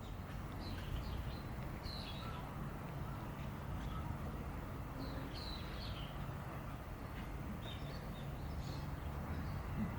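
Small birds chirping in short clusters of quick high calls over a steady low outdoor rumble.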